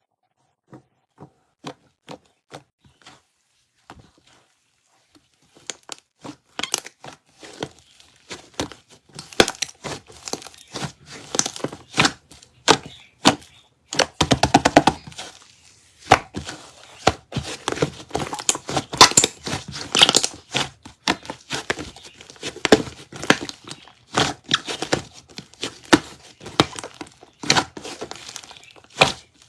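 Slime being pressed and worked by hand, giving crisp crackling, clicking and popping sounds. A few separate clicks at first, then a dense, continuous crackle from about six seconds in, with a quick run of pops around the middle.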